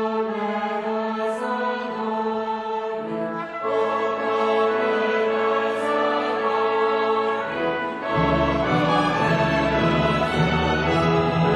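Choir singing with a string orchestra in long held chords; the chord changes about three and a half seconds in, and lower voices and strings fill in about eight seconds in.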